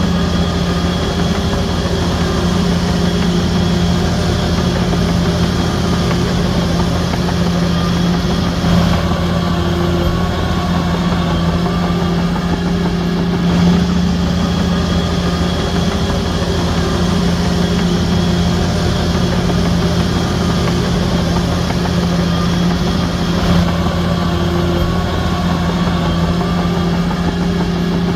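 Heavy diesel engine of a Shantui DH17C3 bulldozer running steadily under work, a constant low engine hum with no pauses.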